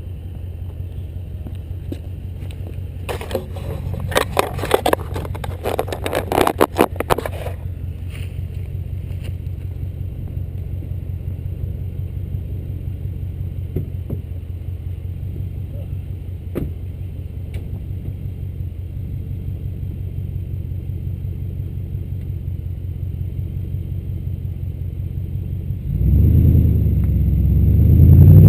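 Chrysler 300 SRT-8 wagon's 6.1-litre HEMI V8 on a Magnaflow exhaust idling with a steady low rumble. A few seconds in there are about four seconds of scraping, crackling noise. About two seconds before the end the engine revs up and gets much louder.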